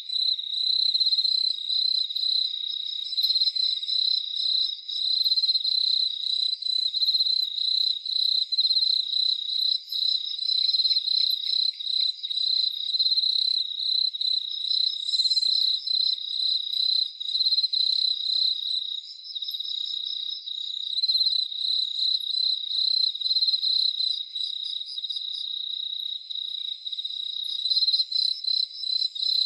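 Crickets chirping in a continuous night chorus: a steady high-pitched trill with rapid pulsing chirps layered over it, and no low sounds beneath.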